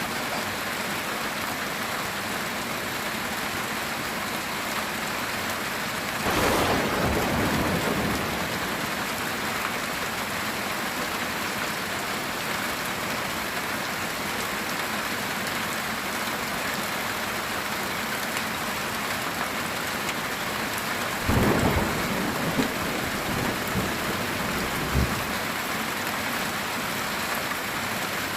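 Steady heavy rain drumming on a metal tin roof, with thunder rumbling twice: once about six seconds in and again about two-thirds of the way through, the second time with a few sharp cracks.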